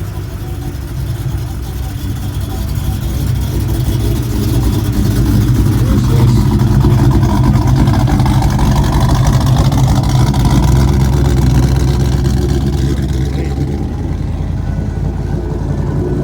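A vehicle engine runs close by. Its low sound builds over the first several seconds, is loudest through the middle, and eases off toward the end, like a vehicle driving slowly past.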